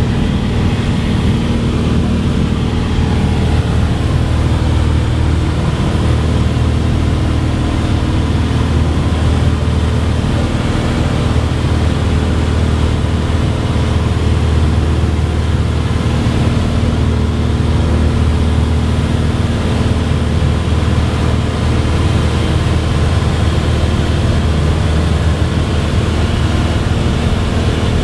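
Cessna 182's single piston engine and propeller running steadily: an even, unchanging drone with a low hum.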